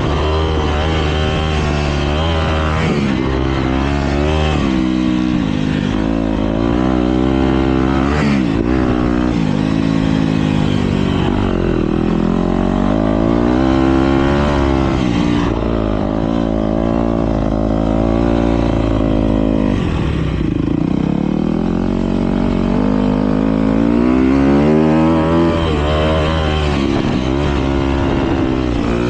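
Several motocross bikes racing, their engines revving up and falling back again and again as they accelerate and shift, with more than one engine heard at once.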